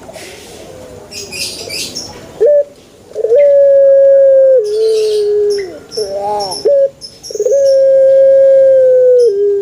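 Male puter dove cooing: two long drawn-out coos, each holding a steady note and then stepping down lower before it ends, with short notes between them. Small birds chirp faintly in the background.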